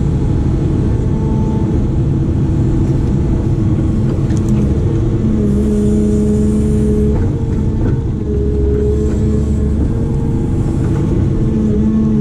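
Diesel engine of a heavy earthmoving machine running under load: a steady low rumble, with a humming tone that comes and goes several times as the load changes.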